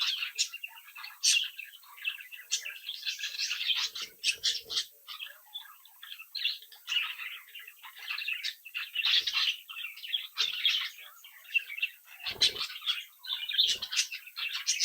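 A group of budgerigars chattering and warbling without pause, a dense mix of quick chirps and twittering. A few short low thumps come through, the clearest about twelve seconds in.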